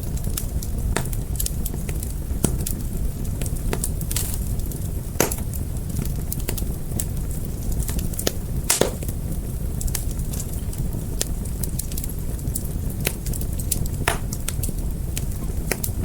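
A wood fire crackling: a steady low rumble of burning under frequent irregular sharp pops and snaps, a few louder cracks among them.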